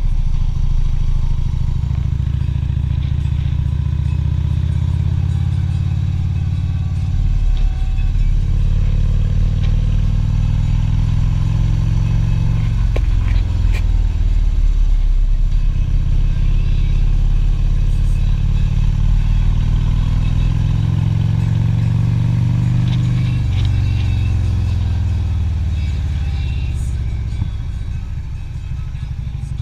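Harley-Davidson Street Glide's V-twin engine running under way. Its pitch climbs, dips briefly about halfway through, climbs again, then falls off near the end as the bike slows.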